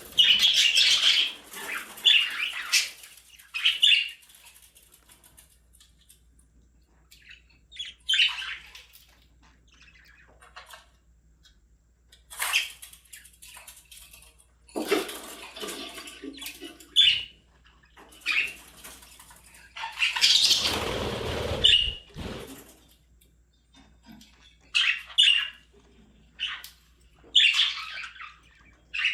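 Pet budgerigars chirping and chattering in short bursts, with quiet gaps between them. About twenty seconds in there is a longer rustling burst of about two seconds.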